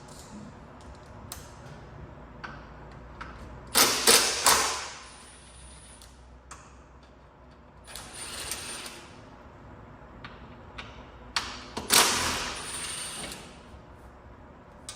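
A power wrench running in three short bursts, about 4, 8 and 12 seconds in, loosening the bolts of a stock exhaust system. Light metal clinks fall between the bursts.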